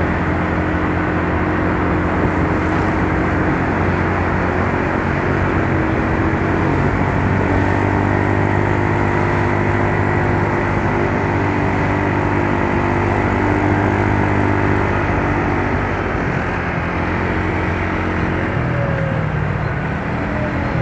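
Yamaha Mio Soul scooter's small single-cylinder four-stroke engine running steadily, its note shifting a little lower near the end.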